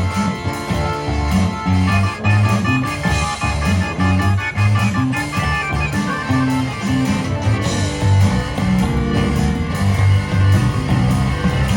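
Live garage-rock band playing an instrumental blues passage, with electric guitar over bass and drums and no singing.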